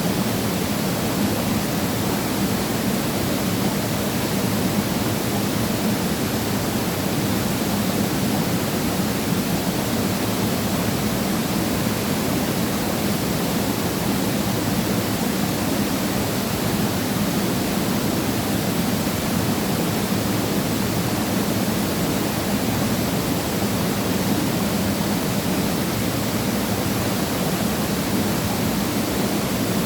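Waterfall pouring into a rocky mountain valley: a steady, loud rush of falling water that does not change.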